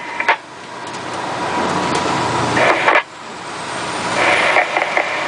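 Fire truck's engine and road noise under way, swelling steadily for a couple of seconds, dropping off sharply about three seconds in, then swelling again.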